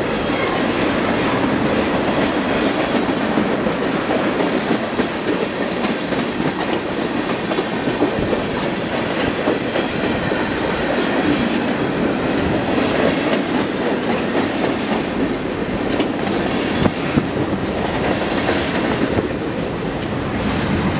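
CN freight train's cars rolling past close by at speed: a steady rumble of steel wheels on rail, with a few sharp clanks. Tank cars and covered hoppers go by, then double-stack container flatcars near the end.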